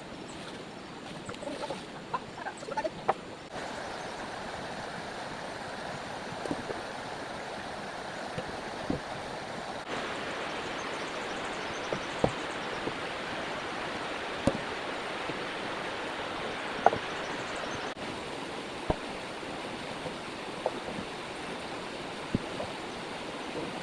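Heavy rain falling steadily, stepping up in loudness about 3.5 seconds in and again about 10 seconds in, with scattered sharp ticks of drops striking close by.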